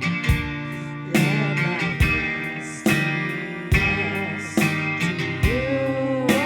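Music: a guitar strumming chords in a steady rhythm, about one strum a second.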